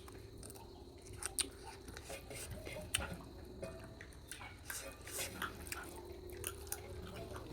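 Someone chewing chicken curry up close, with wet mouth smacks and scattered sharp clicks, over a faint steady hum.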